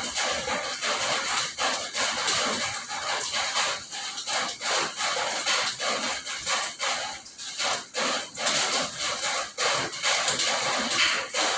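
Heavy rain falling, a dense hiss broken by many close, irregular drop impacts.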